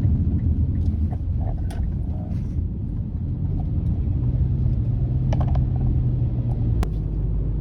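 Car driving along a road, heard from inside the cabin: a steady low rumble of engine and tyres. A low steady hum joins about halfway through and stops with a sharp tick a second before the end.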